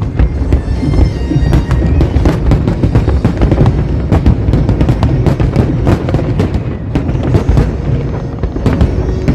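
Fireworks display with a dense, continuous run of bangs, several a second, over a low rumble, with show music playing underneath.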